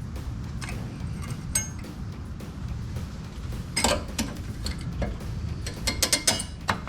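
Sharp metallic clicks and clinks as brake pads are slid and twisted into the caliper bracket's steel clips, with a quick run of clicks near the end, over a steady low hum.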